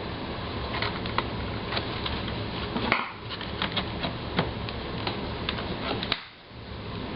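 Clicks, snaps and scraping of hard plastic as a cut-out panel in a laptop's plastic bottom case is worked and pried loose by hand.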